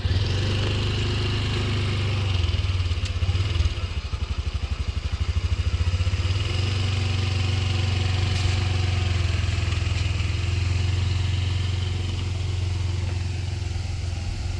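Small motorcycle engine running steadily close by, with rapid low firing pulses and a brief unevenness in level about two to four seconds in.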